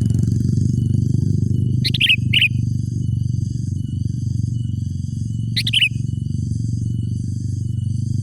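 Sooty-headed bulbul calling: a pair of short, sharply falling notes about two seconds in and another pair near six seconds, over a steady low drone.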